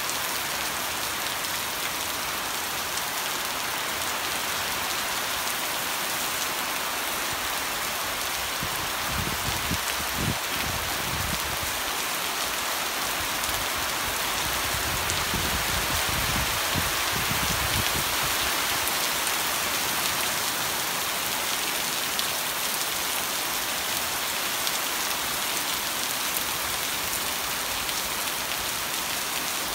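Heavy tropical rain falling steadily on a yard, leaves and standing water, a dense even hiss. A low rumble swells twice in the middle.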